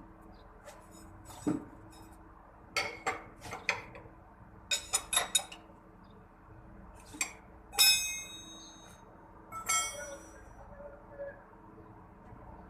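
Metal tools and parts clinking and knocking, in small quick clusters, with two louder ringing clanks about eight and ten seconds in, while work goes on during a truck oil change.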